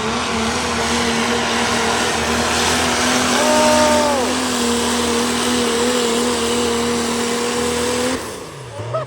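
Engine of a pulling vehicle held at full throttle under heavy load as it drags the sled, running loud and steady at one pitch. A brief shout rises over it about four seconds in. The engine sound cuts off sharply about eight seconds in as the pull ends.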